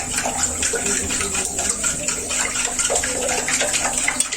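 Salt being poured into a container: a steady rushing hiss made of many small grain ticks.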